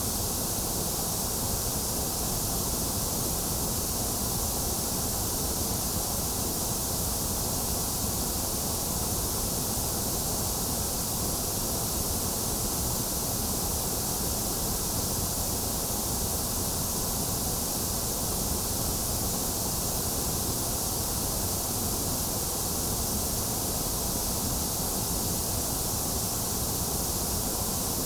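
Steady electronically generated white noise: an even, unchanging hiss, strongest in the highs and lows and thinner in the upper middle.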